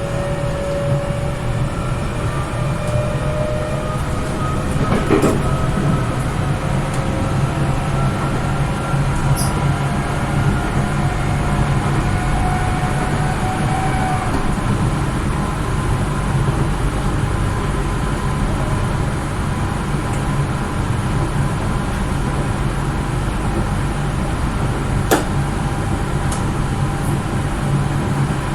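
Tokyo Metro 03 series commuter train running, heard from inside the car. A steady low rumble runs under it, with motor whine rising in pitch over the first dozen or so seconds as the train gathers speed. A few sharp clicks come through, the loudest about 25 seconds in.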